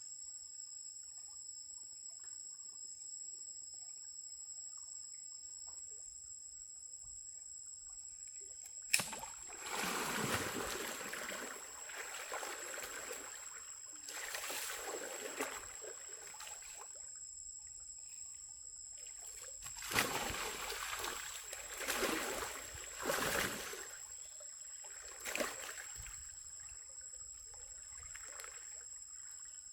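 Water splashing and sloshing in several bursts over a steady, high-pitched insect chorus. A sharp click about nine seconds in is followed by a few seconds of splashing, then a second cluster of splashes comes from about twenty to twenty-six seconds.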